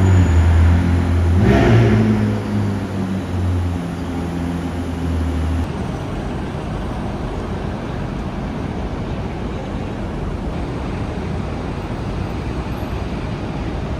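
A car engine running with a deep, steady note and a brief loud rev about a second and a half in. About five and a half seconds in, the sound cuts to steady road traffic noise.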